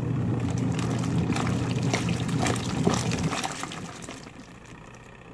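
Twin tub washing machine running with water sloshing and splashing inside the tub over a low motor hum. The hum and splashing stop about three seconds in and die away.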